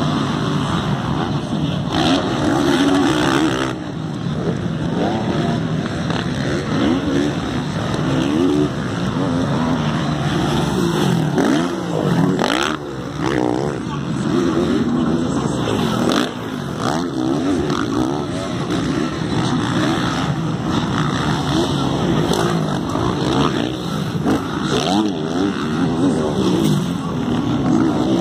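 Several motocross motorcycles racing, their engines revving up and down and overlapping one another.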